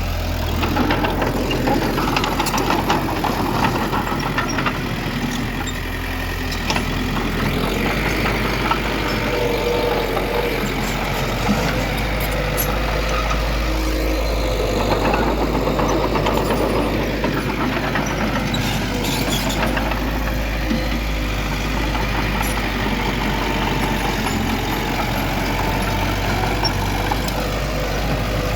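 Heavy diesel earthmoving machinery running steadily, an engine drone with occasional short clanks.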